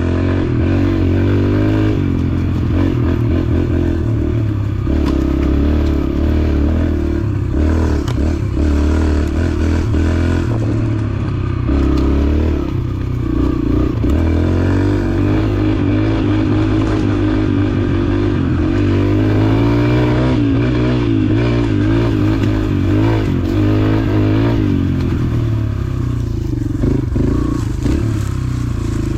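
Dirt bike engine running under way, its pitch rising and falling again and again as the throttle and gears change, with frequent short knocks and rattles.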